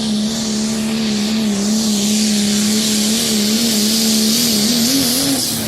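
Truck engine running at a steady, held pitch while pulling a heavy load of about 8,000 pounds, wavering slightly near the end, over a strong high hiss.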